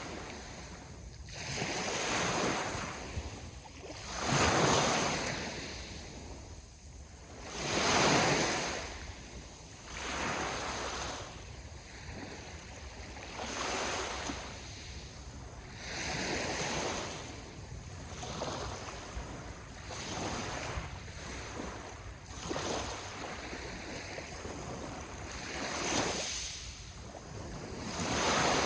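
Sea waves breaking on the shore, one surge after another about every three seconds, each rushing up and washing back; the biggest come in the first third.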